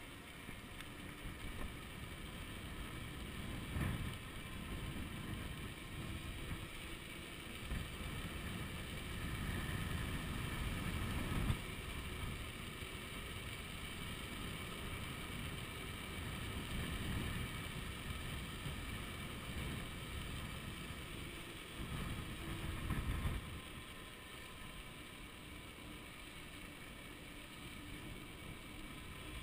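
Wind buffeting the microphone of a chest-mounted action camera on a moving electric bicycle, a steady rumble with stronger gusts about 4 s, 11 s and 22 s in. A faint steady whine sits under the wind throughout.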